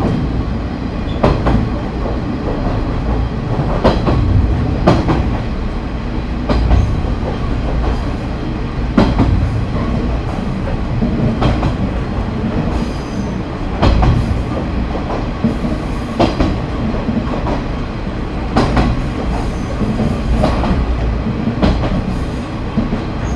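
KiHa 30 diesel railcar running along the line, heard from inside the car: a steady low rumble of engine and wheels, with sharp clicks from the wheels passing over rail joints every second or two.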